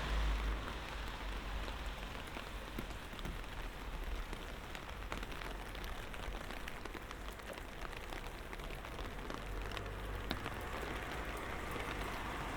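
Light rain falling, a steady patter of many separate drops ticking on hard surfaces. A low rumble fades out in the first half-second.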